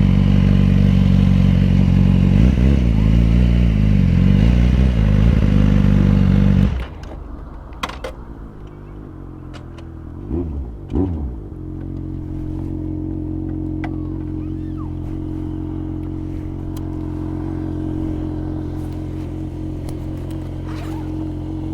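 Motorcycle engine running loud with its pitch shifting, cutting off sharply about seven seconds in. After a few brief knocks, a motorcycle engine idles steadily.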